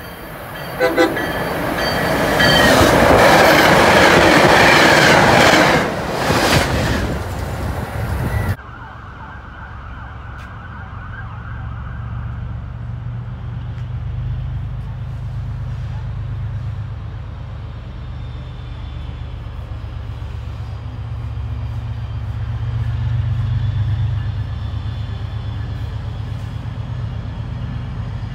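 Commuter rail train blowing its horn and passing through the station at speed, loud for several seconds. The sound cuts off abruptly about a third of the way in, giving way to a steady low rumble of a train running.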